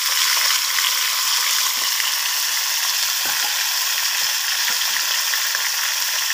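Marinated chicken pieces frying in hot oil in a kadai, a steady sizzle throughout, with a few faint knocks of a steel spatula against the pan and bowl.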